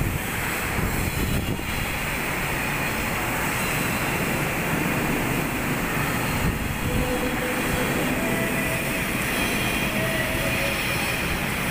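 Steady din of shipyard machinery working inside a steel ship hull: a continuous rumble and noise with a few faint, brief whines.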